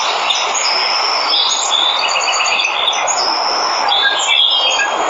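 A waterfall rushing steadily, with several birds chirping and trilling in short high notes over it.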